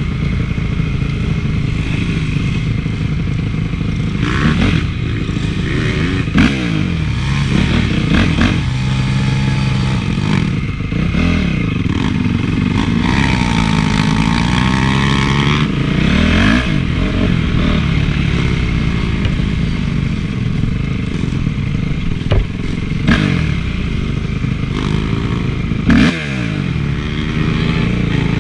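Honda CRF450 four-stroke motocross bike engine running hard, revving up and down through the throttle and gears, with a few sharp knocks and clatter along the way.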